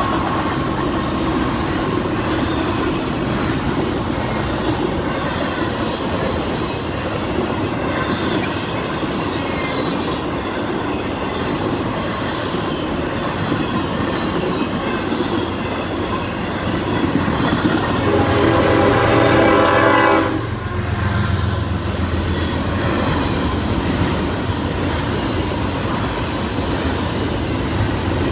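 Double-stack intermodal freight train rolling through a grade crossing, steel wheels clattering over the rail joints. About 18 seconds in, a train horn sounds for roughly two seconds and cuts off sharply.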